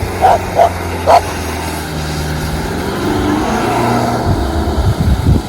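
A BMW's engine running steadily, its pitch rising a little about two seconds in, with a few short barks in the first second and some low thumps near the end.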